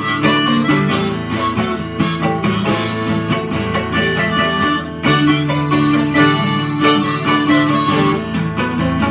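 Harmonica playing held melody notes in an instrumental break, over a strummed acoustic twelve-string guitar.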